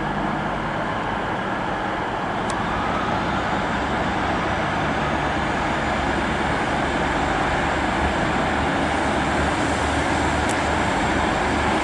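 Class 150 diesel multiple unit's engines running in the station, steady and growing slightly louder.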